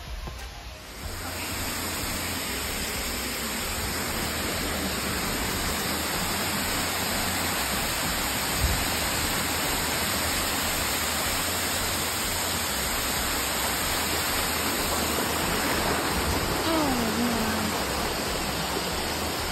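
Waterfall rushing: a steady hiss of falling water, starting about a second in, with a brief knock near the middle.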